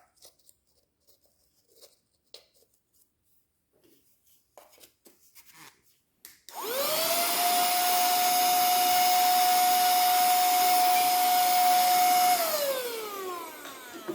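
Faint handling clicks, then about six and a half seconds in a handheld cordless vacuum cleaner is switched on. Its motor whine rises quickly to a steady high pitch over a loud rush of air, runs for about six seconds, then is switched off and winds down with a falling whine.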